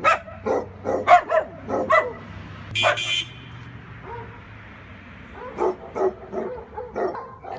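A dog barking in a quick run of short barks, with one higher-pitched yelp about three seconds in, a pause, then another run of barks near the end.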